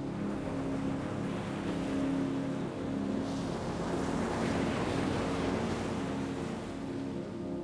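An ocean wave washing in: a rushing surge that swells to a peak about halfway through and then recedes, over a soft sustained ambient music drone.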